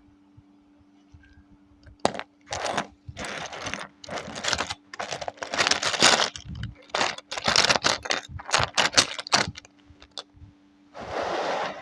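Hands handling small plastic Lego parts, with repeated bursts of rattling and rustling starting about two seconds in and another short burst near the end. A steady low electrical hum runs underneath.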